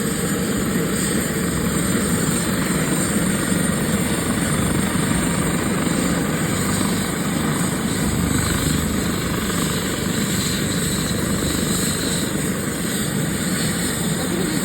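Emergency medical helicopter running steadily at takeoff: rotor noise with a thin, high turbine whine held at one pitch.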